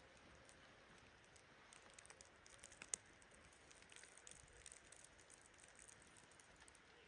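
Near silence with faint scattered ticks and one sharper click about three seconds in.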